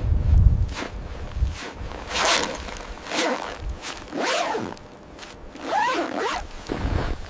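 A zipper pulled in several long strokes about a second apart, its pitch sliding up and down with each pull, after a low rumbling thud in the first second or so.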